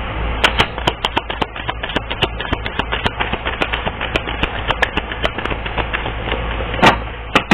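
Tarot cards being shuffled and handled: a quick, irregular run of card clicks and rustling over a steady low hum.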